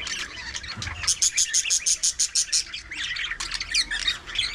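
A flock of budgerigars chattering, with dense high chirping throughout. From about a second in to nearly three seconds, one bird gives a fast run of repeated sharp chirps, about eight a second.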